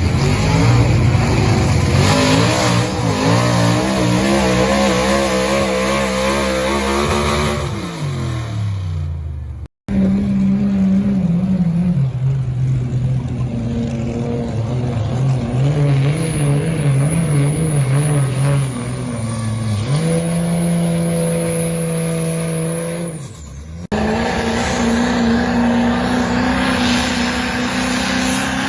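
Modified diesel pulling trucks' engines running hard under load. The engine pitch falls as one winds down, the sound breaks off abruptly twice, and a high-pitched whistle rides over the engine in the middle stretch.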